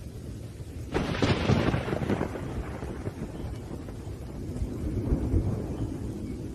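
Thunderstorm: a sharp thunderclap cracks about a second in and rolls off, then a second low rumble swells near the end, over a steady background of rain.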